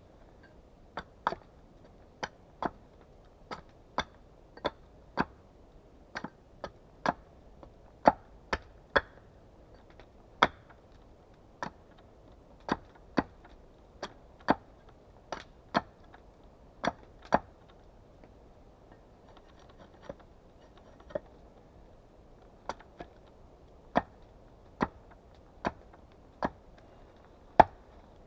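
Small axe striking wood again and again: about thirty sharp chops at an uneven pace of one or two a second, with a short pause past the middle.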